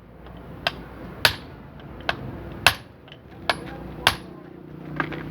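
Hammer striking metal parts of a truck rear differential during assembly: about seven sharp, ringing blows at uneven intervals.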